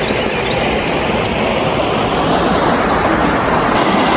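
Creek water rushing over rocks: a steady, loud rushing noise.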